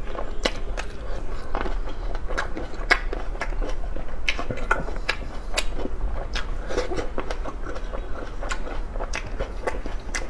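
Cherry tomatoes being bitten and chewed: a steady run of irregular sharp, wet clicks and pops.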